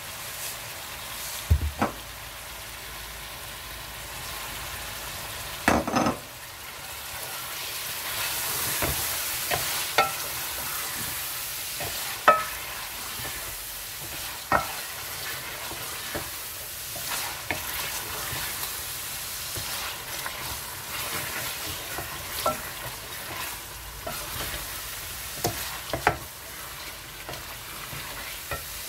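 Chicken pieces sizzling in masala in an aluminium pot as a wooden spoon stirs them, with a steady hiss and about a dozen sharp knocks of the spoon against the pot, the loudest about 1.5, 6, 12 and 26 seconds in.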